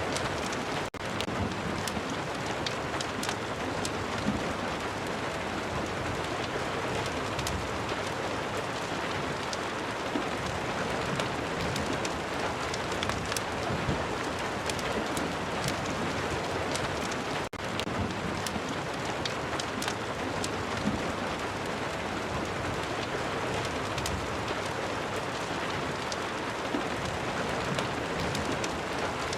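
Steady rain with many small sharp ticks of drops scattered through it. The sound drops out for an instant twice, about a second in and just past halfway.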